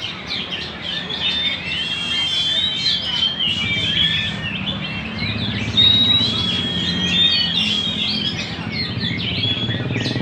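A murai (Copsychus songbird) singing continuously in full song, a varied stream of clear whistled notes and quick chattering phrases, over a faint low hum.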